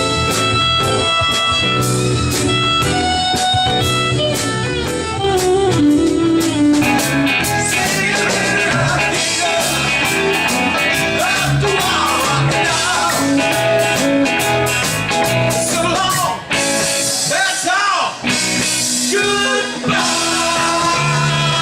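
Live band playing a blues-rock instrumental passage led by guitar, with notes bent up and down in the middle; the music breaks off briefly a few times near the end.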